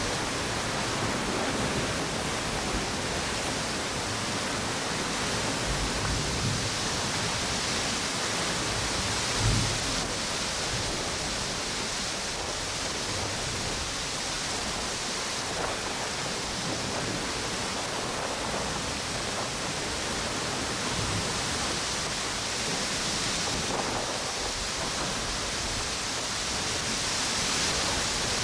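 Steady rush of ocean waves breaking on a beach, mixed with strong wind. A brief louder low thump comes about nine and a half seconds in.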